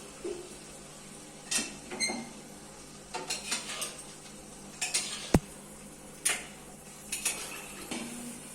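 Scattered light clinks and taps of hard objects being handled, about a dozen spread irregularly, with one sharper click about five seconds in.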